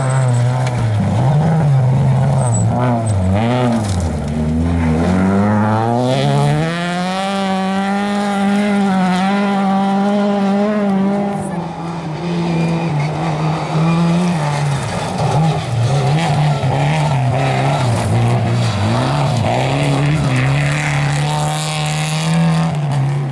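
Rally car engines at hard throttle, the pitch rising and falling with gear changes and lifts off the throttle; about five seconds in one engine climbs steadily and holds a high note for several seconds.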